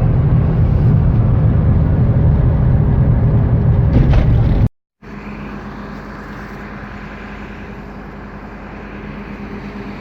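Motor vehicle running, a loud steady low rumble that cuts off abruptly about halfway through, followed by a quieter steady running noise with a low hum.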